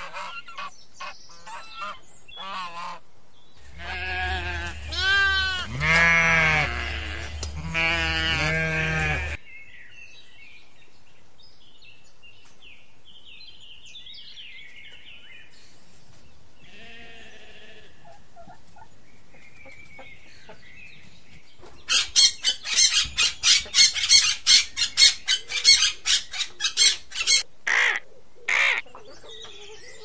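Birds calling in several separate bouts. First come short clicky calls, then a loud call of wavering, pitched notes from about 4 to 9 seconds in. Faint chirps follow, then a fast run of loud honks, about three a second, from about 22 seconds in, and two last calls just before the end.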